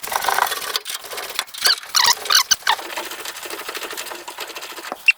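Hand ratchet wrench clicking quickly as a rusted half-inch body bolt is worked loose, with short high squeaks from the bolt as it turns.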